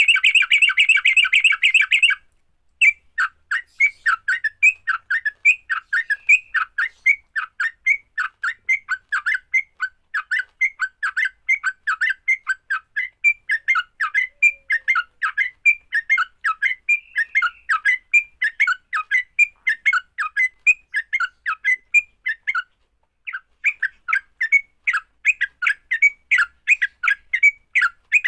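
Yellow-vented bulbul (trucukan) giving its fast, chattering fighting call, a long run of short, quick notes. It is densest and loudest in the first two seconds and pauses briefly near the end.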